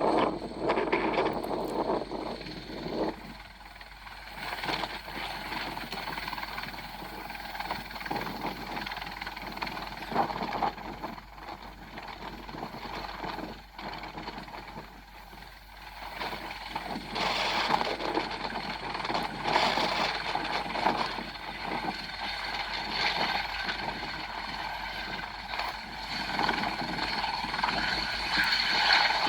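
Airbus H120 helicopter's single turboshaft engine and rotor running, with strong wind gusting over the microphone; the sound swells and grows louder about halfway through.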